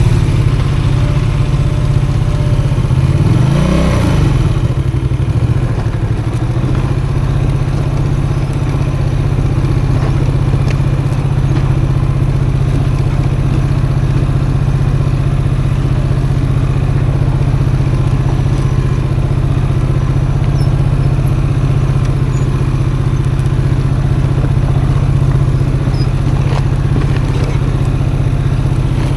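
Custom motorcycle's engine running, with a short rev that rises and falls about four seconds in, then settling into a steady low drone.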